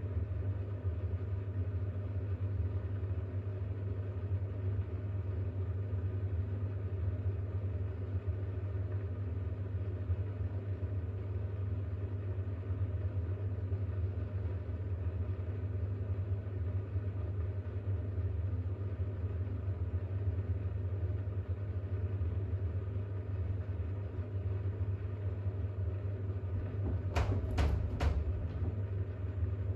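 Bosch WAX32GH1 washing machine humming steadily as it works to balance and spin a load of towels that is too unbalanced for a full spin. Three quick knocks sound close together near the end.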